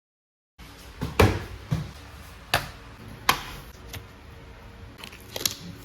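Six sharp clicks and knocks at uneven intervals over a faint steady hum, like small hard parts being handled or tapped.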